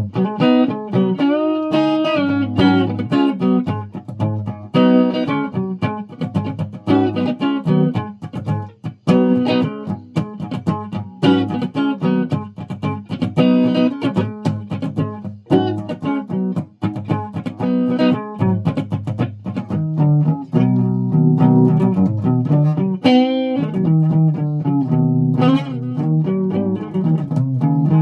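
A guitar being plucked, a continuous run of single notes and chords.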